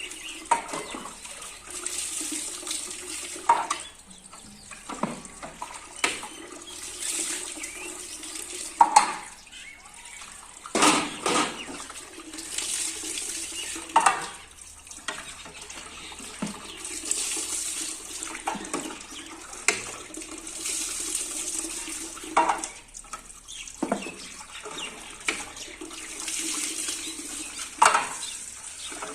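Tap water running at a sink while fridge shelves and trays are washed, with repeated knocks and clatter as they are handled.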